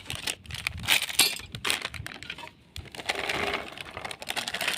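Plastic snack packet crinkling and crackling as it is opened and handled, with many short sharp clicks and a brief lull about halfway through.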